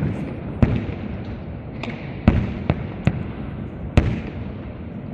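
Aerial fireworks bursting at uneven intervals: about six sharp bangs, the loudest a little past two seconds in and about four seconds in, over a steady crackling rumble of further bursts.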